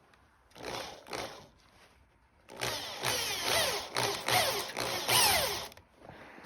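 A tool working material: two short bursts, then about three seconds of repeated rough strokes with falling squeals, stopping abruptly.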